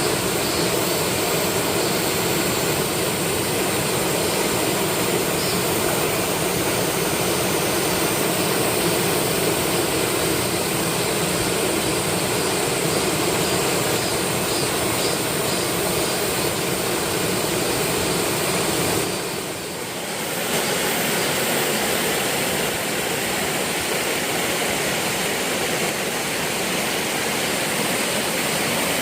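Waterfall pouring: a steady, loud rush of falling water. About two-thirds through it dips briefly and comes back with less low rumble.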